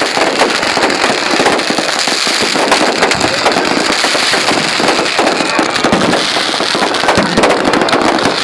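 Fireworks and firecrackers going off in a dense, unbroken barrage of rapid crackles and bangs.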